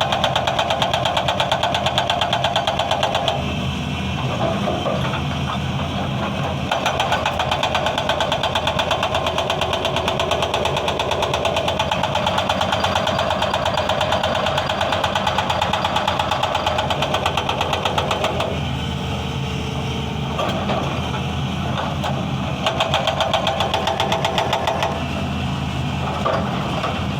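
Excavator-mounted hydraulic breaker hammering stone in a rapid, steady rhythm over the excavator's diesel engine. The hammering eases off twice for a few seconds, about three seconds in and again about two-thirds of the way through, while the engine keeps running.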